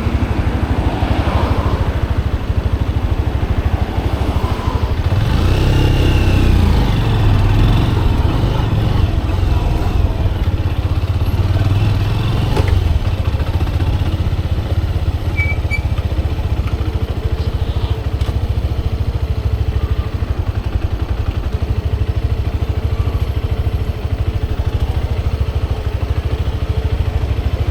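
Motorcycle engine running steadily while riding. Its pitch rises and falls about five to seven seconds in.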